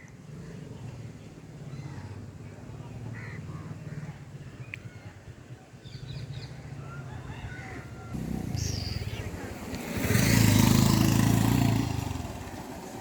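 Road vehicle engine running steadily, then a vehicle passes close with a loud rush about ten seconds in that fades within a couple of seconds.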